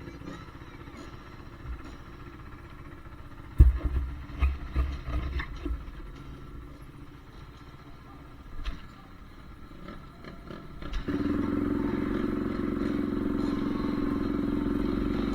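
Honda CRF450R's single-cylinder four-stroke engine running steadily, coming in suddenly about eleven seconds in. Before that, low background with a sharp knock and a string of loud low thumps around four to six seconds in.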